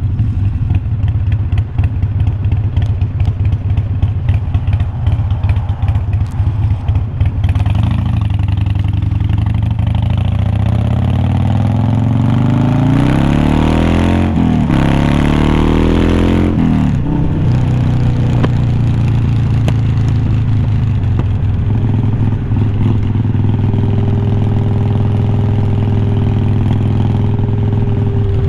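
2020 Harley-Davidson Iron 1200's air-cooled V-twin heard through unbranded glass-pack-style slip-on mufflers while riding. It runs low and uneven with some crackle at first, then revs up hard from about ten seconds in with one quick gear change, drops back, and settles into steady cruising.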